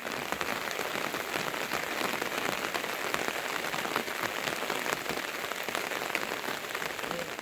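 Steady rain falling, a dense hiss of many small drop impacts that swells up at the start and tapers off near the end.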